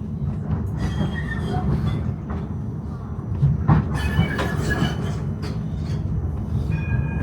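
Tram running along its rails, heard from inside the car: a steady low rumble with the wheels squealing briefly on the track about a second in and again around four seconds in, and a few clicks from the rails.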